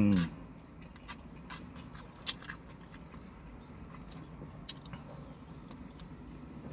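A person chewing food, with a few scattered sharp mouth clicks and smacks, the loudest about two seconds in, over a low steady background hum.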